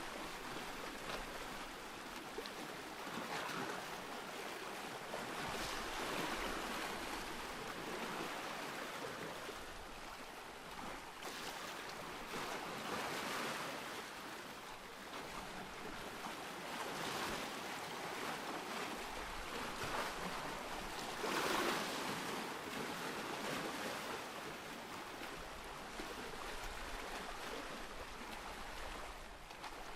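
Ocean surf: waves washing in and drawing back, the sound swelling and easing every few seconds, with the biggest swell about two-thirds of the way through.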